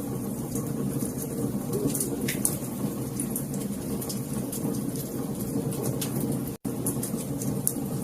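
Wood fire crackling: frequent sharp pops and snaps scattered over a steady low rumble of burning. The sound cuts out for an instant about six and a half seconds in.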